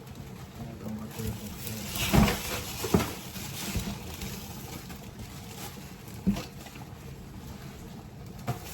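A few scattered short knocks and clunks, the loudest about two and three seconds in, over a steady low background hum.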